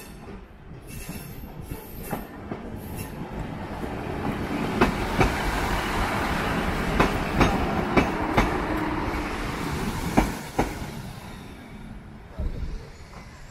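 Class 150 Sprinter diesel multiple unit passing over a level crossing: its diesel engine running while four pairs of sharp clacks ring out as each bogie's wheels cross the rail joints. The sound swells as the train comes close, is loudest in the middle, and fades near the end.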